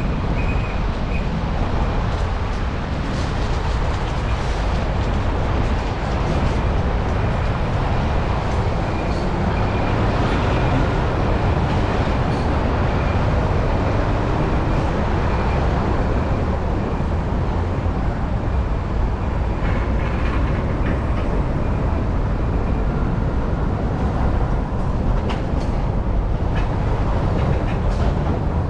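Steady rush of wind buffeting a bike-mounted action camera's microphone, with tyre and road rumble from a bicycle riding along at speed.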